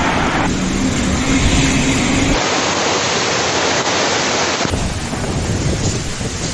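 Storm noise: a loud, steady rush of wind and heavy rain battering the microphone, changing abruptly a few times where clips are cut together.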